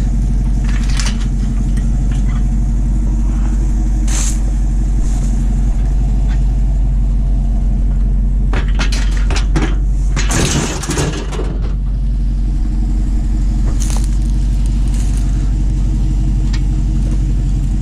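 Vehicle engine idling steadily, with occasional knocks and a cluster of clanks and rattles about ten seconds in, like scrap metal being handled.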